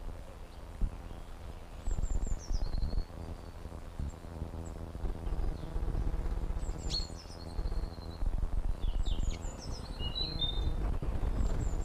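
Birds chirping, with several short calls that fall in pitch, over repeated bursts of loud low rumbling noise from the camera's microphone.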